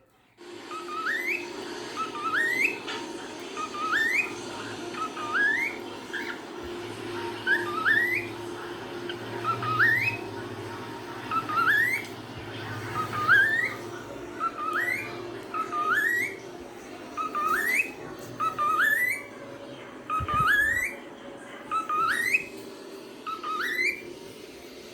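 Cockatiel calling with a short rising whistle, repeated over and over about every one and a half seconds, over a steady low hum.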